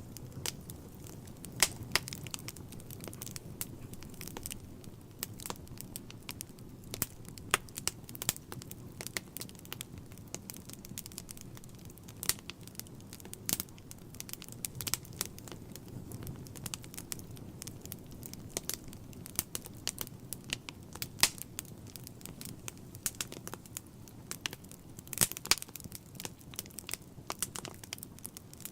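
Wood fire burning in a fireplace: frequent sharp crackles and pops over a low, steady rumble of the flames.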